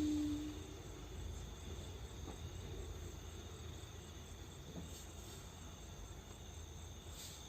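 Steady high-pitched chirring of insects, with a low rumble underneath; a short low tone sounds right at the start.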